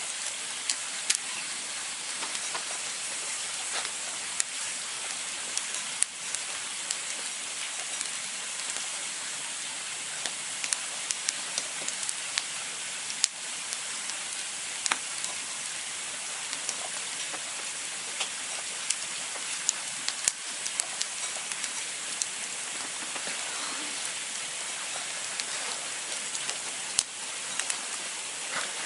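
Campfire burning: a steady hiss with frequent sharp crackles and pops at irregular intervals.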